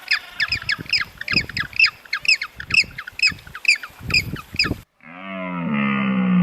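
A bird calls over and over, about two squawking calls a second. The calls stop abruptly about five seconds in, and a different animal starts a long, low call that falls in pitch.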